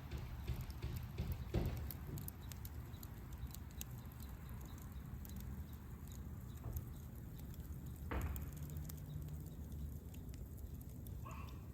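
Campfire crackling with scattered small pops, and two louder dull knocks, one under two seconds in and one about eight seconds in.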